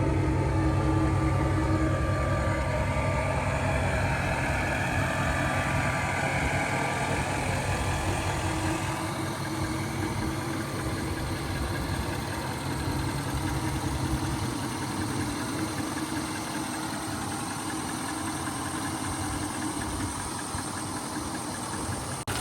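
A 2016 Nissan Titan XD's 5.0-litre Cummins V8 turbo diesel, with its DPF deleted, idling steadily.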